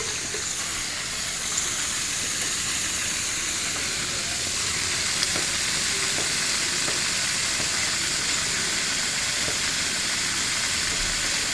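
Steady hiss of water spraying or rushing from a leaking pressurised water line.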